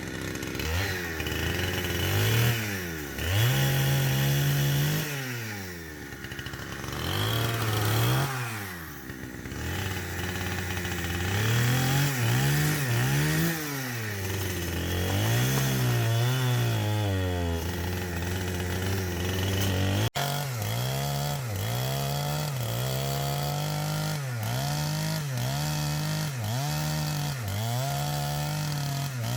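Chainsaw engine revving up and down over and over. After a sudden break about twenty seconds in, the revs rise and fall quickly, about once a second.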